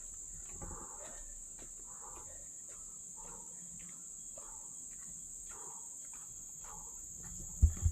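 Insects droning steadily at a high pitch, with soft rhythmic sounds about every two-thirds of a second beneath them and a couple of loud low thumps near the end.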